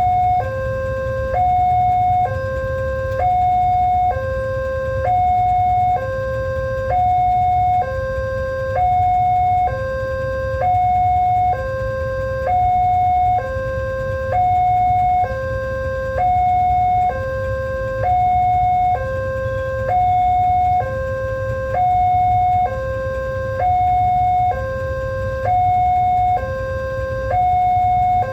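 Railway level-crossing warning alarm sounding: an electronic two-tone signal alternating evenly between a higher and a lower note, each held about a second, over a steady low rumble. It signals that a train is approaching and the barriers are closed.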